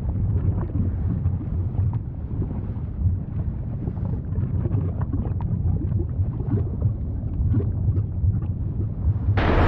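Volcano eruption sound: a steady deep rumble with scattered crackles and pops. About nine seconds in it abruptly turns louder and hissier.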